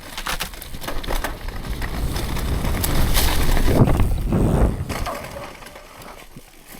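Wind rushing over the microphone and tyres rolling on dirt as a mountain bike is ridden at speed down the run-in and over a jump. The rush builds for about four seconds, then dies away.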